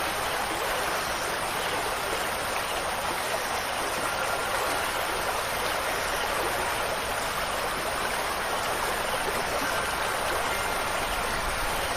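Steady rushing water of a stream, an even, unbroken wash. Faint ringing tones of wind chimes come in near the end.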